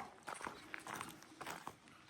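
Faint, irregular footsteps: soft steps and small clicks, a few each second.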